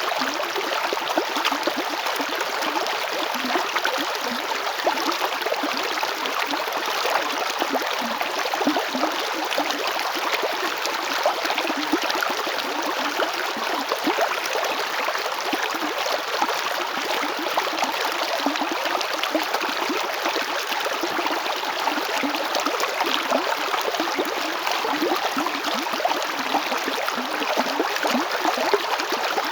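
River water flowing steadily over stones, a continuous rushing babble with fine splashing and gurgling.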